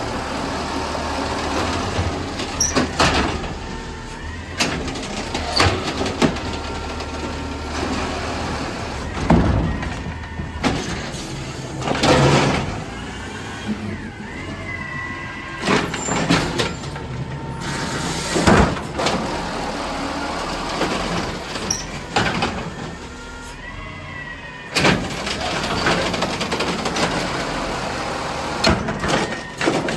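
Amrep-bodied garbage truck working a collection: its diesel engine runs steadily under several loud clanks and bangs, with a wavering whine twice.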